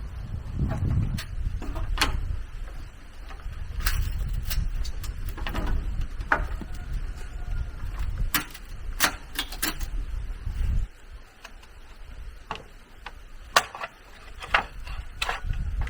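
Irregular sharp knocks and clicks over a low rumble; the rumble stops about eleven seconds in.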